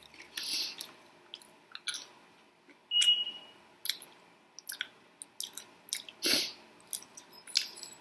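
Close-miked chewing while eating chicken wings: scattered wet mouth clicks and smacks, with a few short louder bursts.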